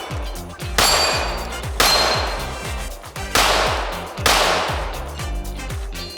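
9mm ported Glock 17 pistol firing at steel targets, about five separate shots roughly a second apart, each followed by a long decaying tail.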